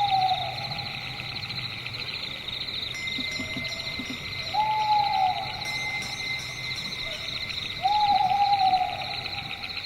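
An owl hooting, one single hoot about every three and a half seconds, over a steady, fast-pulsing chorus of night insects.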